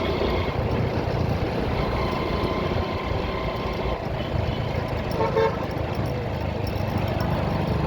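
Steady road and engine noise of traffic with wind rumble, and one short horn toot about five seconds in.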